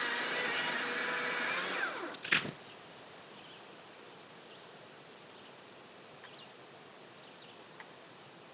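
Gas chainsaw running at full throttle, then winding down about two seconds in. A sharp crack-thud follows as a small tree comes down. Then only quiet outdoor ambience with a few faint bird chirps.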